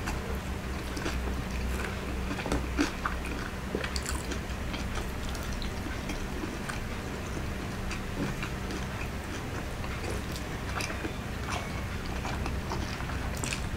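Close-up chewing of crispy fried pork belly (lechon kawali) with rice, with irregular crunches and clicks throughout, the sharpest about two and a half seconds in. A steady low hum runs underneath.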